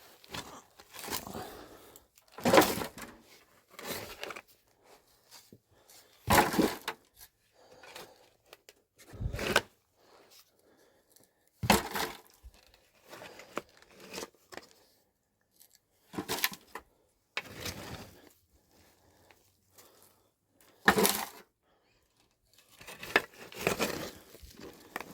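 A series of irregular sharp cracks and tearing, handling noises, about eight separate events with short quiet gaps between them.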